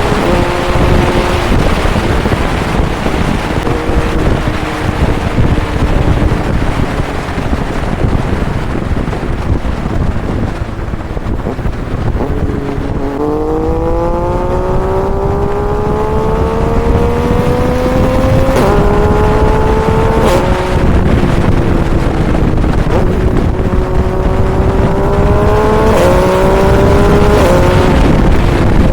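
Motorcycle engine accelerating through the gears under heavy wind rush: its pitch climbs steadily, then drops sharply at each upshift, three times in the second half.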